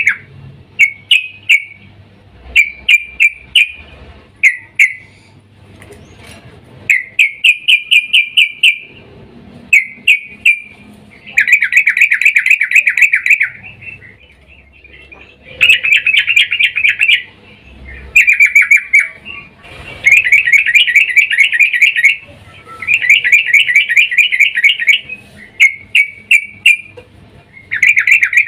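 Yellow-vented bulbul (trucukan) call, given as a female calling a male. It comes in about a dozen bursts of fast, chattering repeated notes, some brief and some running for about two seconds, with short pauses between them.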